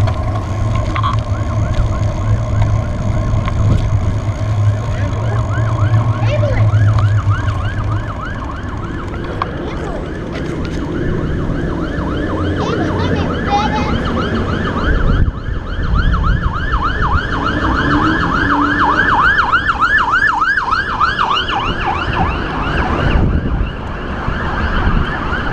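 Fire engine sirens on yelp, a fast rising-and-falling wail repeating about three times a second, growing louder toward the latter part. A low steady hum runs under the first several seconds.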